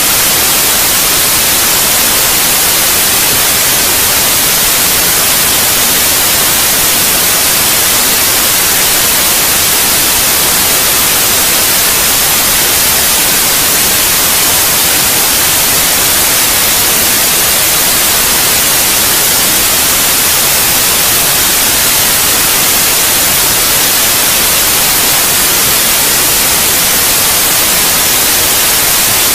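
Steady, loud white noise: an even hiss, brightest in the high end, with no changes or breaks, used as a sleep aid for babies.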